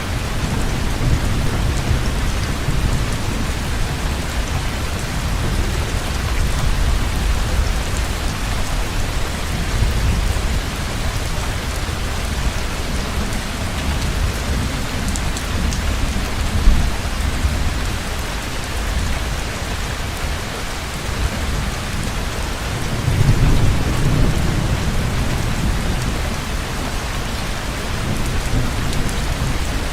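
Heavy rain pouring steadily, with low rolling thunder that swells about three-quarters of the way through. A single sharp tap sounds a little past halfway.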